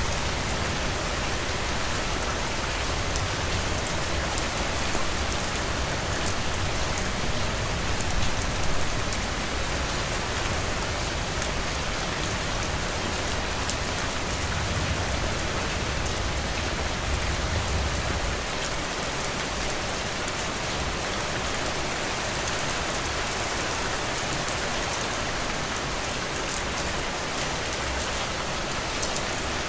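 Heavy rain falling steadily, a dense even hiss. A low rumble underneath eases off about two-thirds of the way through.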